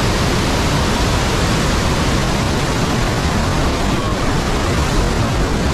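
Water of the Rhine Falls, a large river waterfall, rushing steadily and loudly.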